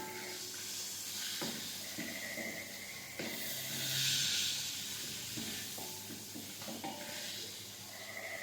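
Food frying in hot oil in a wok or pan: a steady sizzle that swells about four seconds in, with a few short knocks of a utensil stirring or turning it.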